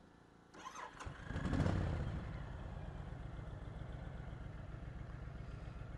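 Motorcycle engine starting about a second in, revving up briefly, then settling into a steady, even idle.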